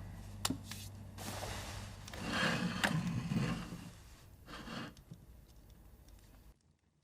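Faint rustling and scraping handling sounds in a quiet room, with a small click about half a second in. The sound cuts out completely near the end.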